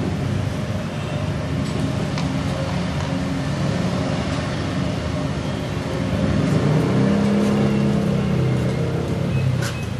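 Datsun GO+ three-cylinder petrol engine running, revved up about six seconds in and held higher for a few seconds before easing back, during a decarbonising treatment to clean the combustion chambers. A sharp click near the end.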